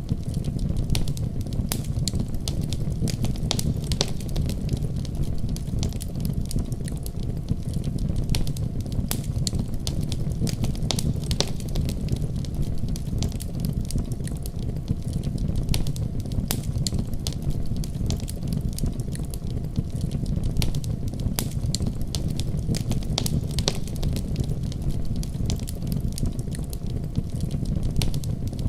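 Wood fire crackling with irregular sharp pops, over the steady low rumble of a heavy snowstorm's wind.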